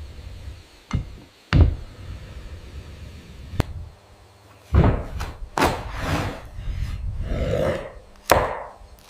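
Irregular knocks and thuds on wood from building work, about half a dozen blows unevenly spaced, with a longer rough scraping sound near the end.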